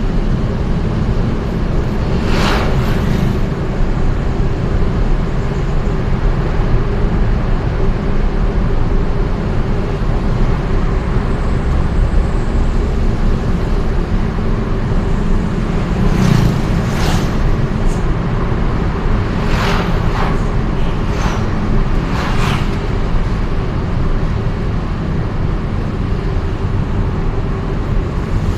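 Steady engine and road noise of a vehicle driving through city traffic, with short sharp swells of noise about two seconds in and several more between about 16 and 23 seconds in.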